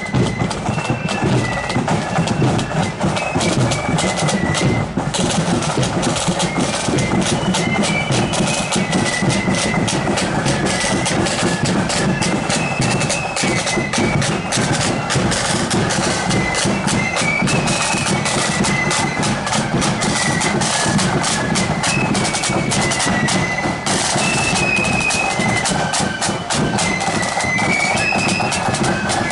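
A marching flute band playing a tune: many flutes in unison carry a shrill melody over a steady beat of snare and bass drums.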